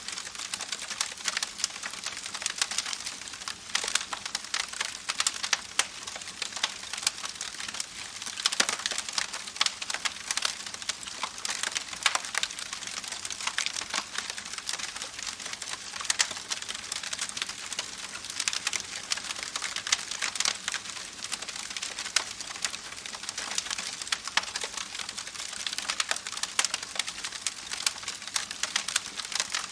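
Campfire crackling: a dense, irregular run of small sharp pops and snaps over a steady hiss.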